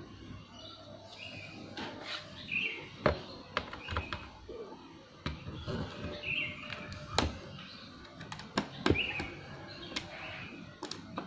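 Scattered sharp clicks and taps of a screwdriver and small screws as the bottom-case screws of an Asus X441B laptop are taken out, with short high chirps every few seconds.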